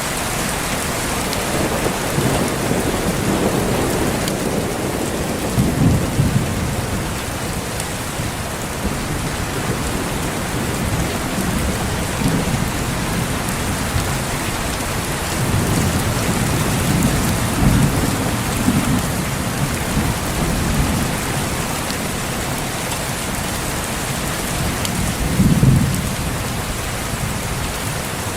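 Steady heavy rain with thunder rumbling several times, the strongest roll near the end.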